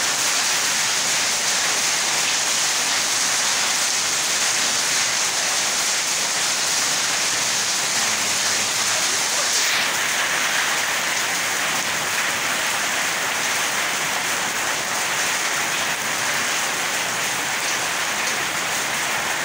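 Steady rain falling on wet concrete paving stones: an even hiss of drops splashing on the puddled surface, its tone shifting slightly about halfway through.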